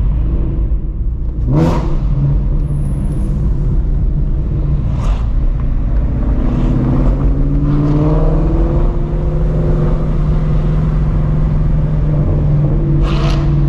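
Straight-piped 2016 Shelby GT350's flat-plane-crank V8 with long-tube headers running in city traffic, with a brief sharp burst about a second and a half in. About halfway through its pitch climbs as the car accelerates, then it settles into a steady drone.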